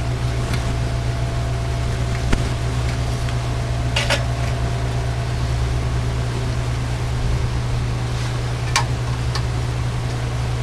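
Steady low electrical hum on the repair bench, with a few sharp clicks and taps from work on the radio, the loudest about four seconds in and two more near the end.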